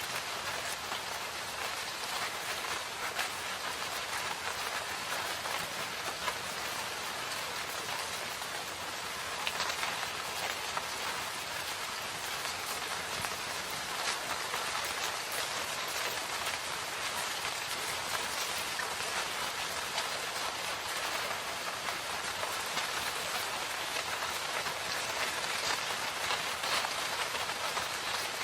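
Steady rain falling in a forest, a dense even patter of drops with individual drops ticking through it.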